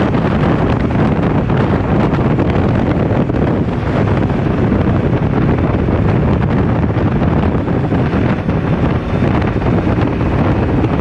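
Heavy wind buffeting on the microphone at road speed, over the steady rumble of a Can-Am Ryker 600 three-wheeled motorcycle riding along.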